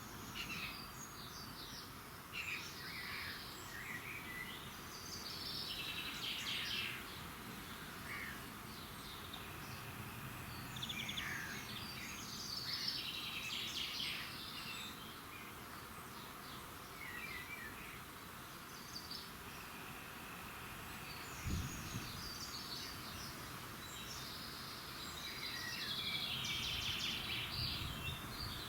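Songbirds singing in a dawn chorus, with short phrases from several birds coming one after another over a steady background hiss. There is one brief low thump about two-thirds of the way in.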